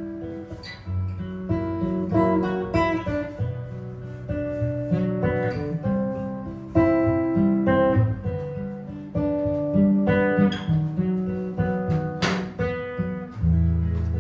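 Jazz guitar improvising: a plucked single-note melody moving over low bass notes. A sharp percussive click sounds about twelve seconds in, and just after it a low chord is struck and left ringing.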